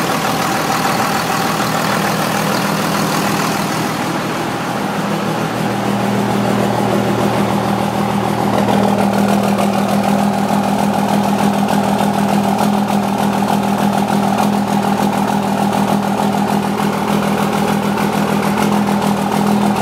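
24-valve Cummins diesel engine with a new 67 mm HX52/55 turbocharger, idling on its first start-up after a runaway. The hiss drops away about four seconds in, and from about eight seconds the idle settles steadier and slightly louder.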